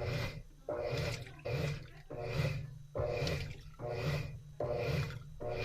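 Washing machine in its wash phase, churning laundry in water: a rhythmic swishing that comes back a little more than once a second.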